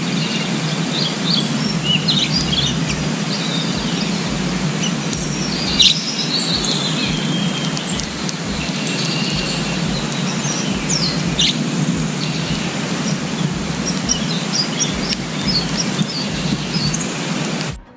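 Songbirds chirping and calling, many short, quick notes scattered throughout, over a steady loud rushing hiss from the outdoor background.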